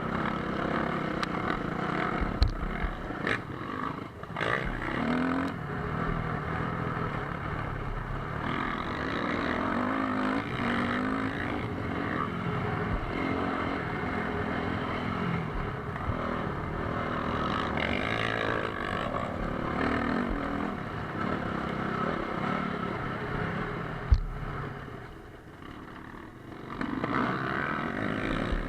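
Motocross bike engines revving up and down as they ride, with a sharp knock about two and a half seconds in and another near the end, followed by a brief drop in engine noise.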